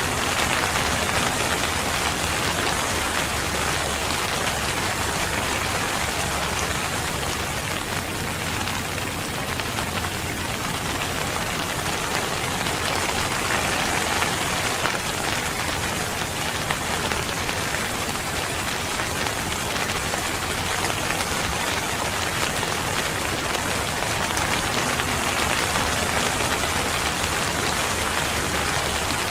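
Steady, heavy rain falling on surfaces, a dense even patter.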